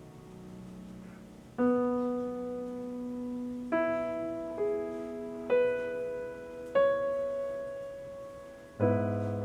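Background music: a slow solo piano playing single sustained notes one at a time, each struck note fading before the next.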